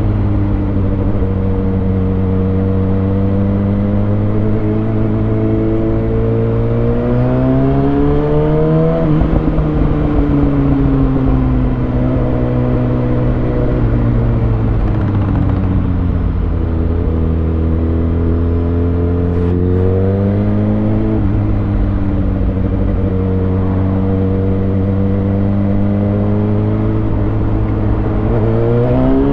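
2020 Kawasaki Ninja ZX6R's inline-four engine, breathing through a Lextek SP7C carbon exhaust with decat headers, running at low, fairly steady revs. The pitch swells gently twice as the throttle is opened and eased off, then climbs sharply near the end as the bike accelerates.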